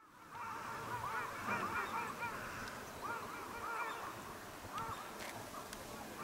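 Birds calling: several bursts of short, arched chirps over a faint outdoor background.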